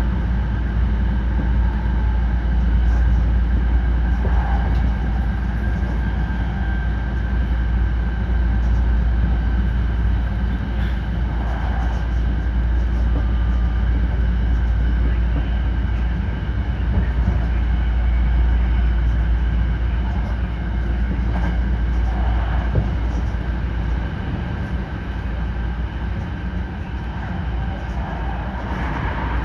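Hankyu 9300-series electric train running, a steady low rumble of wheels on the track heard from inside the car, easing a little near the end.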